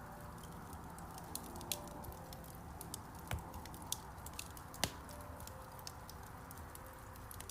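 Wood fire crackling in a fireplace: an irregular run of small sharp snaps and pops over a soft hiss, with a louder pop about five seconds in.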